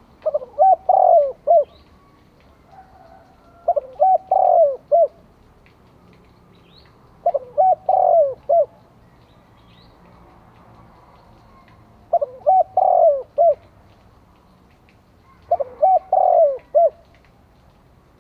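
Spotted dove cooing: five phrases of several low coos each, about a second long, repeated every three to four seconds. This is the call that keepers use on a decoy bird to draw in wild doves.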